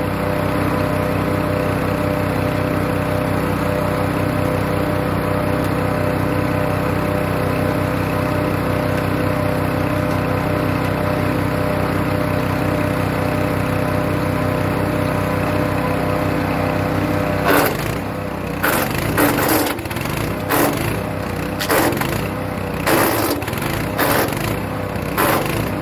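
Hecht 6208 wood chipper's petrol engine running steadily. About two-thirds of the way in, birch branches go into the chipper: a quick run of sharp cracks as the blades chop the wood, with the engine note dipping under the load.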